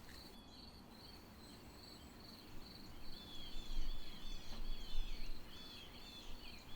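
Insects trilling steadily at a high pitch, with a bird joining about three seconds in with a quick run of repeated short chirps.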